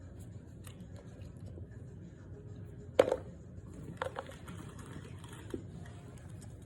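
Hard lumps of starch being bitten and crunched: one sharp crunch about 3 seconds in, two smaller crunches a second later, and a faint one after, with light crinkling between.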